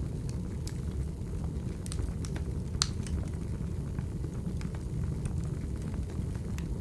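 Wood fire burning: a steady low rumble with scattered crackles and pops, the loudest a little under three seconds in.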